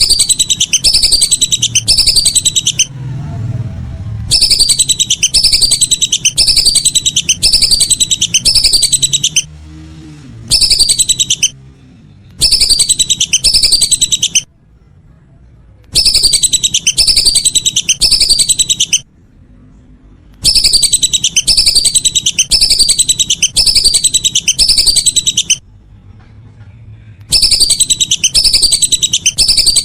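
Lesser whistling duck (belibis) calls: loud bursts of rapid, high, descending whistled notes, repeated in the same pattern with short pauses between bursts. They make up a looped lure recording meant to call the ducks in.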